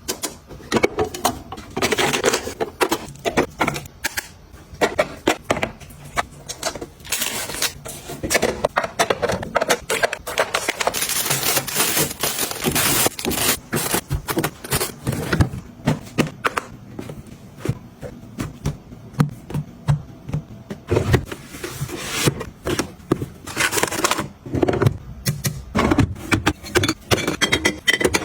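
Close-up handling sounds: frequent clicks, taps and rustling of packaging and containers being handled and set down.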